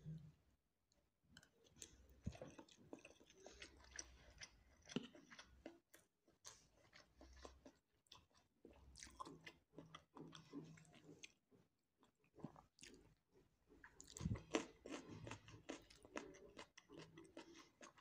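Quiet close-miked chewing of a mouthful of spiced kabsa rice and chicken: many small wet mouth clicks, more of them about three-quarters of the way through.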